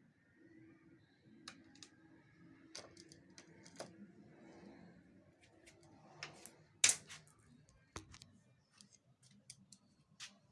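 Scattered small clicks and taps of plastic and metal parts being handled during reassembly of a photocopier's document feeder, irregular, with one sharper click about seven seconds in.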